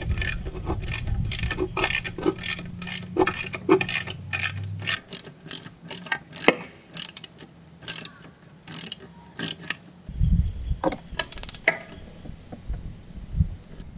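Socket ratchet clicking in quick runs of strokes as 13 mm nuts and bolts with nylon locking nuts are tightened down; the clicking thins to a few scattered strokes about ten seconds in.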